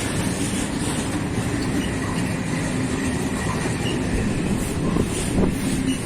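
Train rolling past, a steady rumble of wheels on rails with a faint steady tone and a couple of short knocks near the end.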